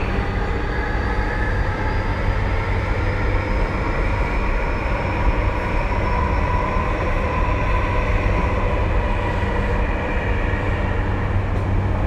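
Tokyu 2020 series electric train running, heard from inside the car: a steady rumble of wheels and running gear under a traction-motor whine that rises slowly in pitch as the train gathers speed, then levels off and fades about two-thirds of the way through.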